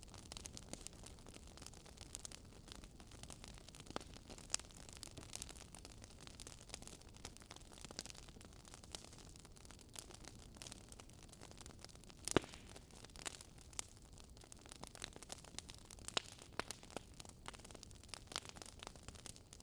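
Burning firewood crackling: a soft steady hiss with irregular small pops and snaps, one louder pop about twelve seconds in.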